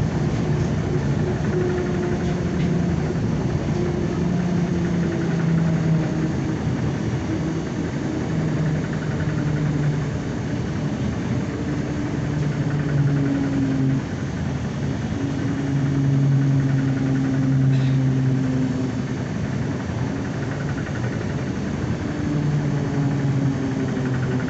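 ZiU-9 trolleybus under way, heard from inside the cabin: a steady rumble of road and body noise under an electric motor hum whose pitch holds for a few seconds, then shifts to a new note as the speed changes.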